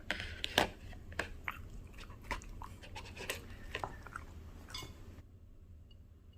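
A Bichon Frise chewing a crunchy piece of raw produce: a quick run of irregular crunches, loudest near the start, that stops about five seconds in.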